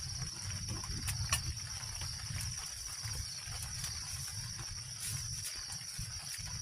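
Steady chorus of insects: a continuous high, finely pulsing trill. A low rumble sits underneath, with a few faint clicks about a second in.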